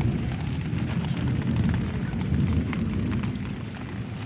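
Rain falling, with many small drop clicks pattering over a heavy, steady low rumble.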